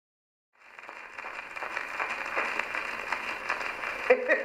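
Surface noise of an early Albany Indestructible phonograph cylinder as playback starts: a steady hiss full of fine crackles and ticks, thin and narrow in tone, fading up about half a second in. A man's voice begins near the end.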